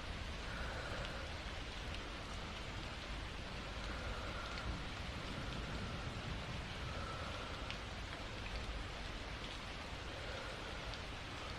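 Steady rain falling, with occasional drops ticking. Soft, slow breathing rises and falls over it every few seconds.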